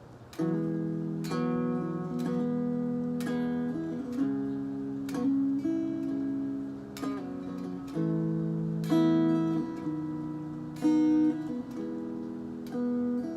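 Acoustic guitar playing an instrumental intro, strumming chords about once a second, each chord ringing on until the next.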